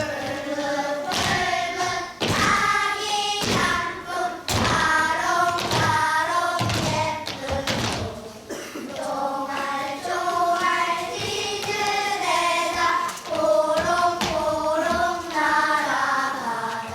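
A group of children singing in unison, with several thumps among the singing.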